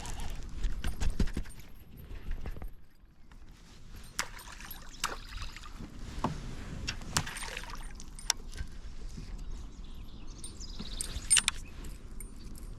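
Scattered knocks and clicks of gear and movement in a plastic fishing kayak, a handful of separate sharp taps, with a low rumble during the first couple of seconds.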